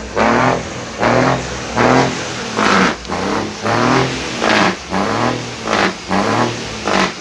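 Truck engine revved in quick, evenly repeated blips, about three every two seconds, each rev rising and falling in pitch.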